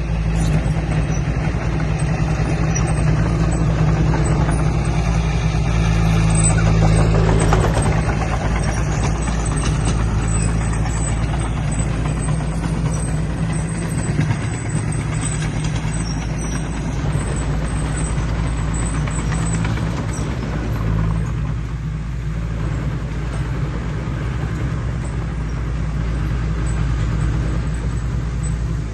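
Diesel engine of a heavy earthmoving machine running steadily, a low even drone with rumbling mechanical noise over it.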